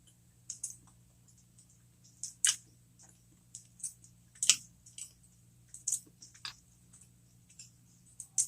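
Close-miked chewing of a cheeseburger-stuffed jalapeño popper: irregular wet mouth clicks and smacks, a few of them louder.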